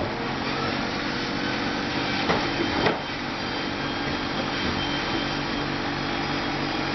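A small motor running steadily with a whine, with two short knocks a little over two seconds in and about half a second later.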